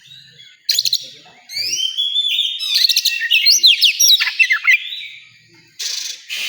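Oriental magpie-robin (kacer) singing a loud, varied song of quick whistles and sweeping, slurred notes. There is a short break before a new phrase starts near the end.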